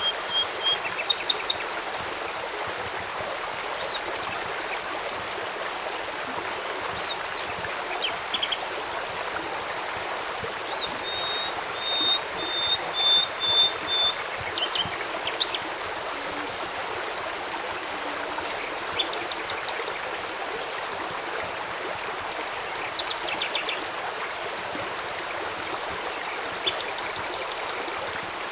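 Steady rush of a flowing stream, with a bird calling over it in short high whistles, including a quick run of about six notes partway through.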